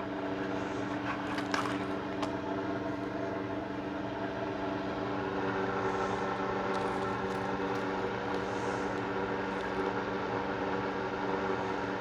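A steady, even machine hum with several pitches stacked together, running unchanged. A few faint light clicks sound in the first two seconds.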